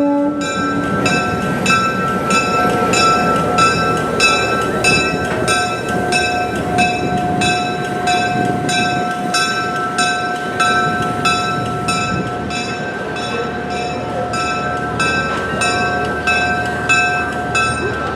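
A train rolling past, a steady mix of rumble and rhythmic clatter, with long high-pitched squealing tones held over it.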